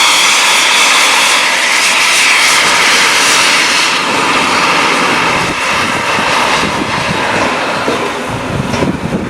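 Peppercorn A1 Pacific steam locomotive starting away with its cylinder drain cocks open: a loud, steady hiss of steam and water blowing from cold cylinders. The hiss eases near the end, as rougher low pulses come in.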